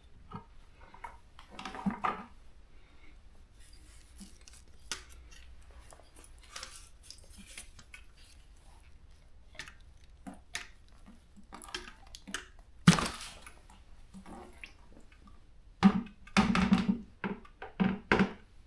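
Irregular clicks and knocks of tools and parts being handled, with one sharp knock about two-thirds of the way in and a busier run of knocks near the end.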